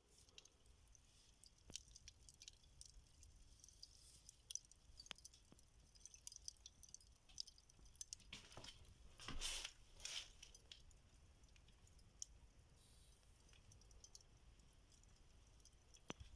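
Near silence, with faint scattered clicks and a brief soft rustle about nine seconds in.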